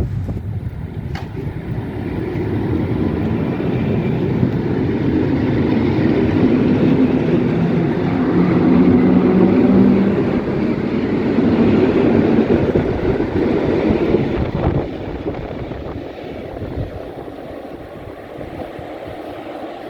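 A train passing by on the rails, its rumble building to a peak about ten seconds in and fading away after about fifteen seconds.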